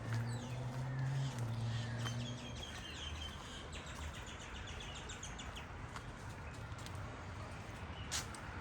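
A small bird singing a quick run of short, high chirps over the first half, above a low steady hum that stops about two and a half seconds in. A couple of sharp clicks near the end.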